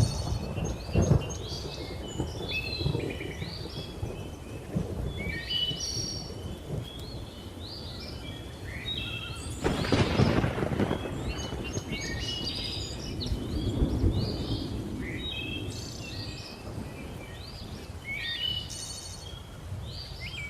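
Rolling thunder rumbling under a chorus of many birds chirping and calling. A louder clap of thunder breaks through about halfway, and the rumble swells again a few seconds later.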